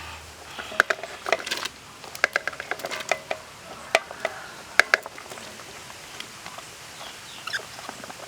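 Kitchenware clinking and knocking: a quick, uneven run of sharp clicks and taps, some ringing briefly, which dies down about five seconds in.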